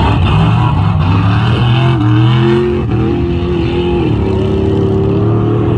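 Mega truck engine running hard and revving, its pitch climbing, dropping sharply about three seconds in, then holding steady at a lower pitch.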